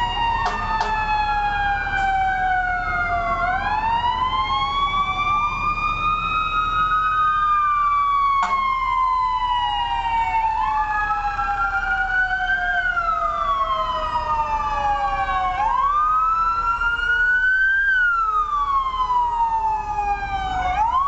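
Emergency sirens of fire apparatus responding. A siren repeatedly winds up in pitch and then slides slowly down over several seconds, overlapping a second siren that wails up and down.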